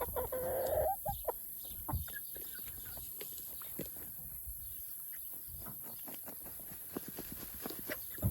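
Chickens clucking: one pitched call in the first second, then soft scattered ticks and scratching sounds.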